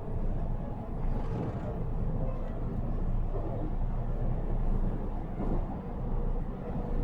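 Running sound inside a JR Central 313 series (1300 subseries) electric train: a steady low rumble of wheels on rail.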